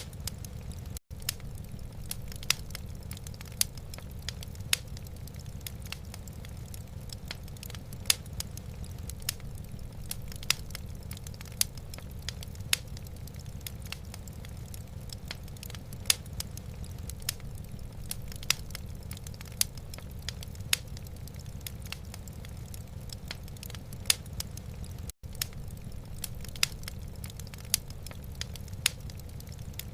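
Wood fire in a fireplace crackling: irregular sharp pops and snaps, a few a second, over a steady low rumble. The sound cuts out for an instant twice.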